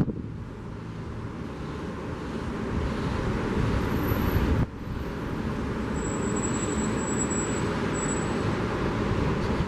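A car passing on the beachfront road, its road noise swelling over the first few seconds and cutting off suddenly a little before halfway, over a steady wash of surf and wind.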